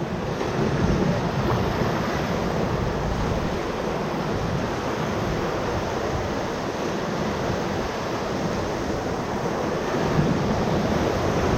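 Whitewater of the Ocoee River rushing steadily around a raft, a dense even hiss of moving water that grows a little louder near the end.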